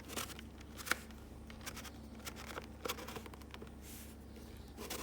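Light plastic clicks and handling noises from a 2-in-1 hair dryer-straightener being turned on its swivel mechanism, a few small clicks spread through, over a faint low hum.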